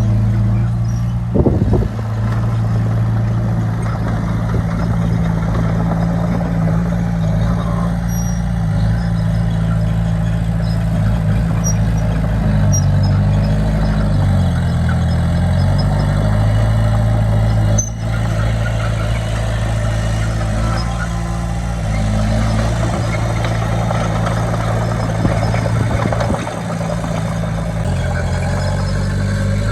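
Heavy diesel machinery running steadily on the earthworks, its engine pitch dipping for a few seconds about halfway through, as if it is lugging under load, then recovering. There is a single sharp click about two-thirds of the way in.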